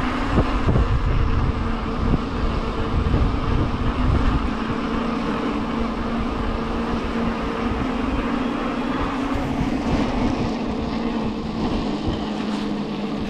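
Wind buffeting the microphone with a heavy low rumble, easing after about four seconds, over a steady hum that holds one pitch throughout.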